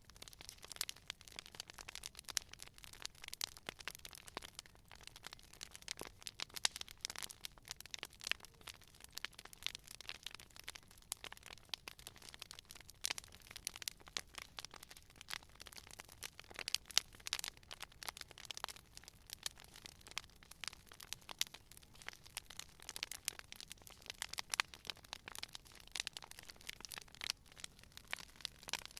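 Wood fire crackling, with dense irregular pops and snaps over a soft hiss.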